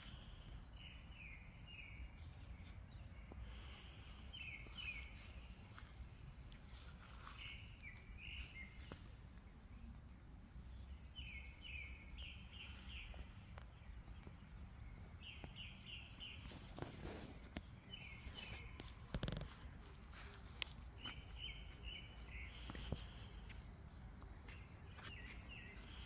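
Small bird singing faintly: short groups of three or four quick high chirps, repeated every few seconds, over a low steady rumble. A few soft knocks come about two-thirds of the way through.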